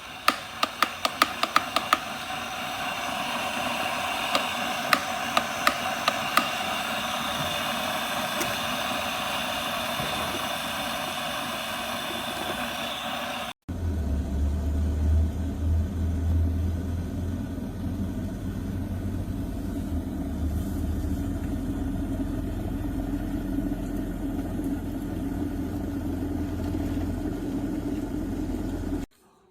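Electric glass kettle heating water: a run of sharp ticks and a rising hiss, then, after a sudden break about halfway through, a steady low rumble that cuts off shortly before the end.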